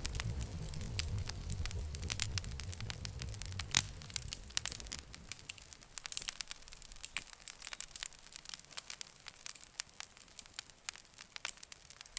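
Campfire crackling, with irregular sharp pops and snaps over a low rumble that fades out about halfway through.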